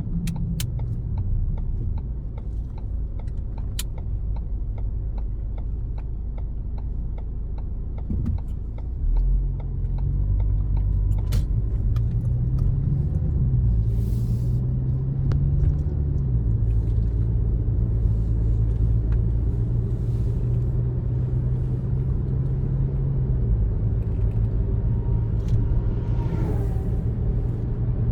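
Car driving, with engine and road rumble. The engine note rises about ten seconds in as the car speeds up, holds steady, then eases off near the end.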